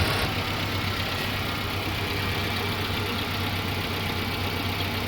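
Tracker's engine idling steadily as it warms up, freshly restarted after a crankshaft oil seal replacement.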